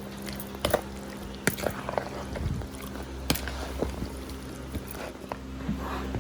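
A spoon working mayonnaise into boiled potatoes in a bowl: soft wet squishing with scattered sharp clicks and knocks of the spoon against the container, over a steady low hum.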